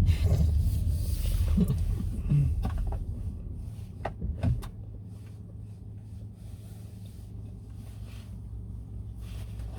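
Low road rumble inside a car cabin that fades over the first five seconds as the car slows, with a few sharp clicks and knocks. After that comes a steady, quieter low hum as the car runs slowly or stands.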